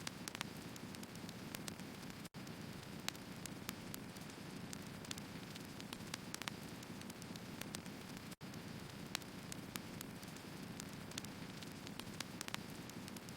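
Firewood burning: a steady low rush of flame with frequent irregular sharp crackles and pops from the logs. The sound cuts out for an instant twice.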